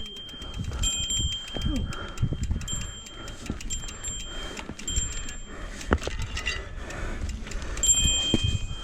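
Mountain bike being pushed over rough trail: a fast run of clicks with on-and-off metallic ringing tones, and low knocks and thuds from the bike and footsteps.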